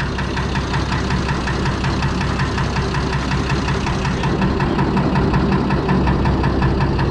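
Six-cylinder Perkins diesel engine in a Fordson Major tractor running steadily, with an even, rapid pulse of firing strokes.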